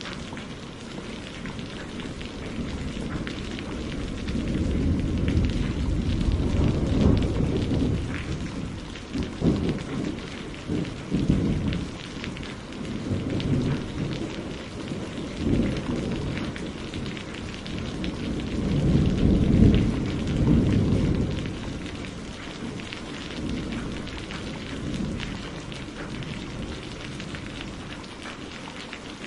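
Steady rain with rolling thunder: low rumbles swell and fade several times over the hiss of the rain, loudest about two-thirds in.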